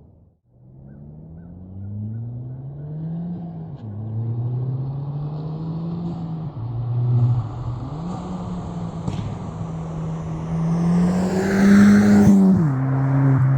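Ford Fiesta ST's turbocharged 1.6-litre four-cylinder through a Rev9 3-inch catback exhaust, accelerating hard: the engine note rises, drops back at several gear changes and rises again, growing louder and loudest near the end.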